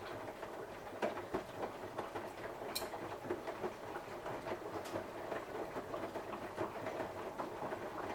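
Samsung washing machine on a 60 °C cotton cycle, its drum turning and tumbling the wet wash, with a steady run of irregular clicks and knocks.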